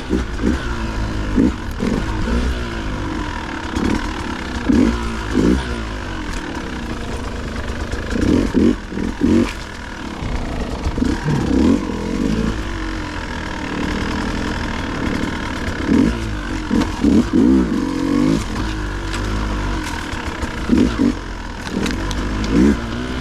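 Dirt bike engine revved in short, repeated throttle bursts, its pitch rising and falling every second or two over a steady low rumble, as the bike picks its way over technical trail.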